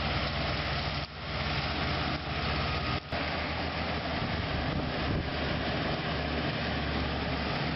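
Heavy diesel engines of a bulldozer and a truck running steadily under load as they work up a steep dirt slope, a dense, continuous drone that dips briefly twice.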